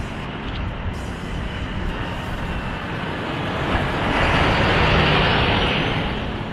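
Heavy road vehicle passing close by, its engine and tyre noise swelling to a peak about five seconds in and then fading.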